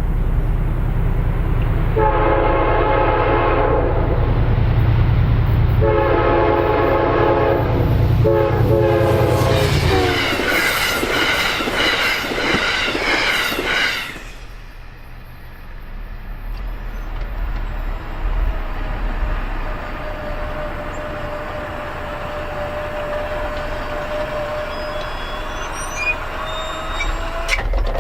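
Train horn sounding the grade-crossing pattern: two long blasts, a short one and a long one, the last higher-pitched, over the low rumble of a passing locomotive. The rumble fades about ten seconds in, leaving quieter rail noise with a faint steady tone.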